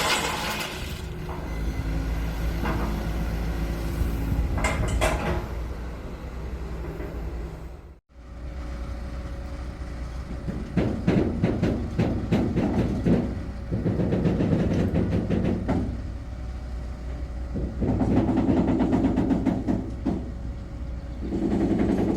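Wheels of a slow-moving rail vehicle clattering over the track, with bursts of clatter about every four seconds over a low rumble. The sound breaks off sharply about eight seconds in, where the footage is cut.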